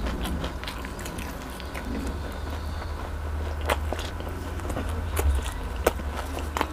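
Close-miked chewing of a mouthful of fried chicken: wet mouth sounds with many small clicks, and a few sharper ones in the second half.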